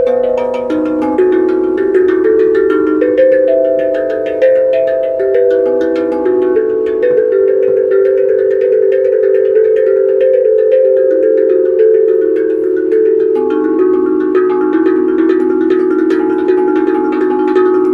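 Tuned percussion instrument played in a continuous melodic run of struck notes that ring on and overlap, mostly in the low-middle register.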